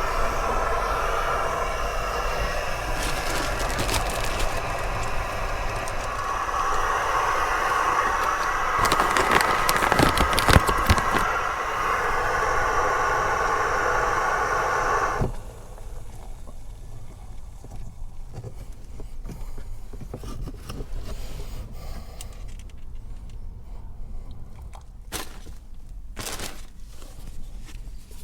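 Strong wind blowing hard, a loud steady rush for about the first half. It drops away suddenly, leaving a quieter background with scattered knocks and scrapes of things being handled.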